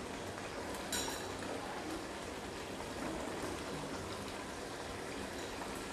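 Steady sizzle of a spiced onion, tomato and ginger-garlic masala cooking in oil in a karai, with one brief clink about a second in.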